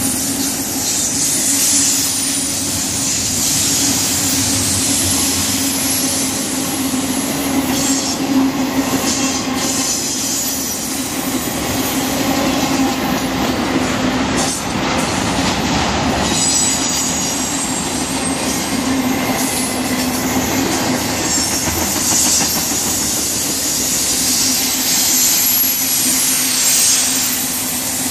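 BNSF intermodal freight train's double-stack container cars and trailer-carrying flatcars rolling past close by: a steady rumble and rattle of wheels on rail under a low hum, with a thin high wheel squeal at times.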